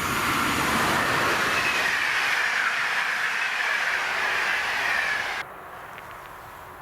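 A train passing close by on the main line, a loud rush of rolling noise with a high whine that slowly falls in pitch. The sound cuts off abruptly about five seconds in, leaving quieter background.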